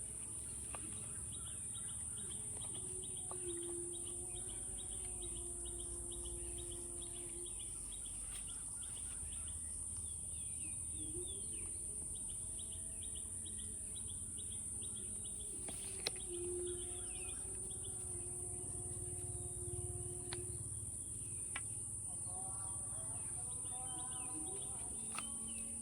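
Rural outdoor ambience: a steady high-pitched insect drone with birds chirping in quick repeated notes, and a few long, low drawn-out calls. A single sharp click comes about two-thirds of the way through.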